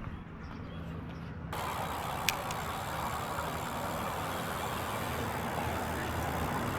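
A motor vehicle running with a low steady hum. About a second and a half in, a loud, even rushing noise cuts in abruptly and holds steady, with a single click shortly after.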